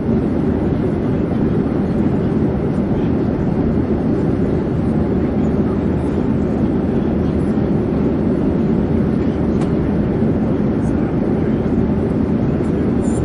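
Airplane in flight: a steady low drone that holds the same pitch and level throughout.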